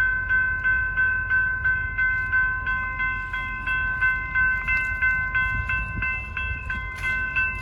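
Railroad crossing warning bell ringing rapidly and steadily, about three dings a second, over the low rumble of a train at the crossing.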